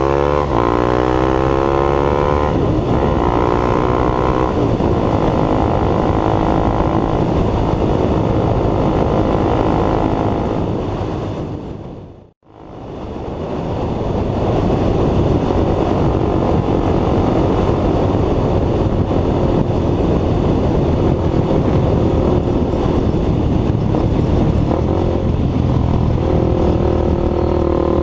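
KTM Duke 390 single-cylinder engine through a free-flow aftermarket exhaust, rising in pitch as the bike accelerates, then a steady rush of engine and wind while riding. The sound dips out and comes back about twelve seconds in, and the engine pitch stands out again near the end.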